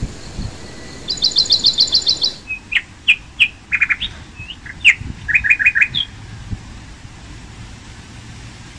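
Small birds calling. About a second in comes a fast trill of about nine high sweeping notes, then a run of short, lower chirps that includes a quick series of four notes. The calls stop after about six seconds.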